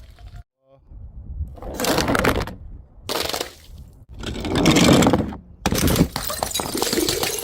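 Things breaking and crunching in several separate bursts, each starting and stopping abruptly with short silent gaps between them.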